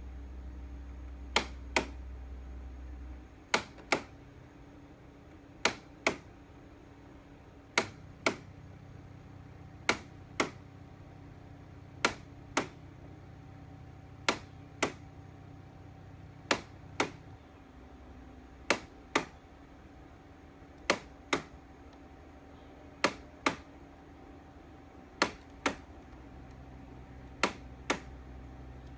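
Air conditioner making an abnormal noise: sharp double clicks, one pair about every two seconds, over its steady low running hum.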